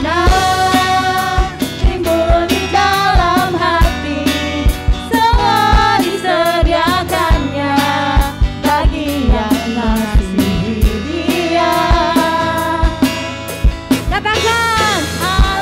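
Worship song: singing over guitar backing with a steady drum beat.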